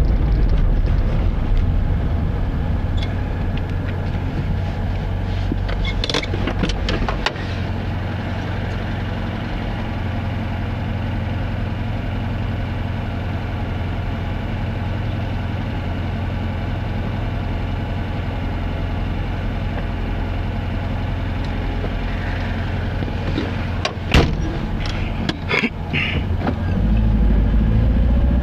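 A car driving, with steady engine and road rumble. A few knocks and rattles come about six seconds in and again about 24 seconds in.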